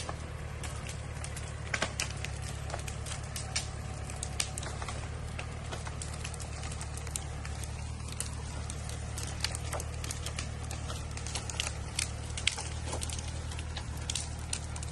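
Small Japanese tractor's engine running steadily with a low drone, with scattered sharp clicks and cracks over it.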